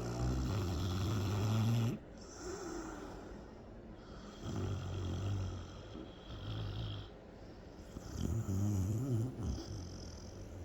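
A dog snoring in its sleep: a run of low snores, the loudest at the start and again about eight seconds in, with softer ones between.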